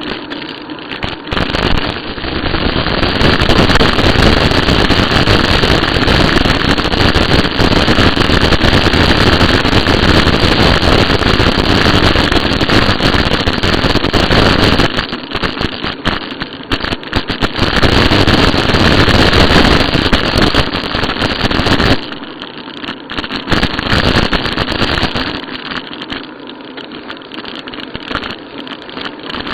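Wind buffeting the microphone of a camera carried on a moving bicycle, a loud, gusty rumble that eases for a couple of seconds in the middle and drops much lower for the last part.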